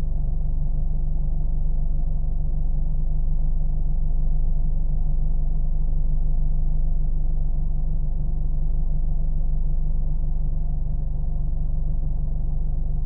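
Car engine running steadily: a low, even rumble that holds constant without revving or changing pitch.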